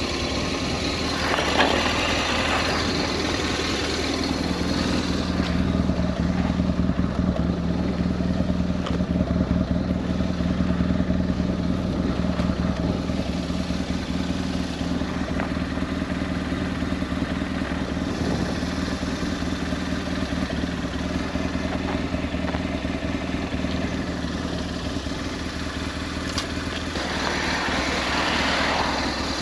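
BMW R1200S's air/oil-cooled boxer-twin engine running steadily under way, with wind rushing past. The wind swells briefly about a second in and again near the end.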